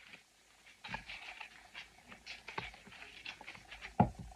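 Faint, irregular rustling and light clicks of craft pieces being handled and adjusted, with one sharper knock about four seconds in.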